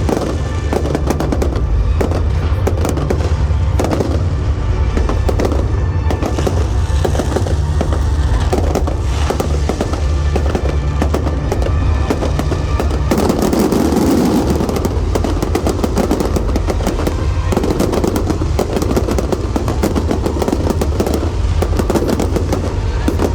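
Fireworks display going off in quick succession, many sharp bangs and crackles one after another, over music playing alongside.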